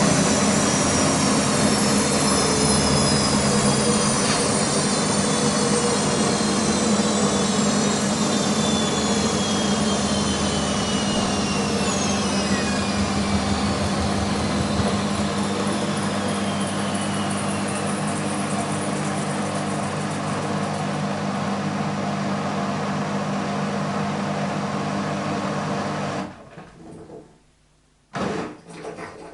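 BEKO WMB 51441 washing machine in its final 1000 rpm spin, winding down: a steady hum with a whine that slowly falls in pitch as the drum slows, then stopping about 26 seconds in.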